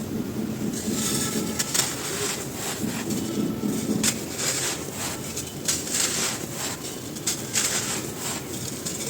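Dry, dusty cylinders of a brittle material being crumbled by hand: an irregular run of crisp crunches and crackles over a soft gritty rustle.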